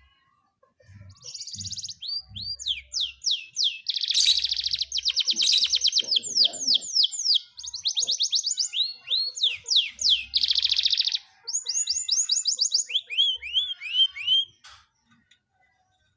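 Domestic canary singing a long, loud song of fast buzzy rolls and quick runs of repeated down-slurred notes, stopping about a second and a half before the end.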